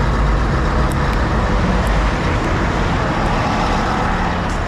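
Lorry's diesel engine held at raised revs to drive the hydraulic tipping gear, a loud steady running with a strong low rumble.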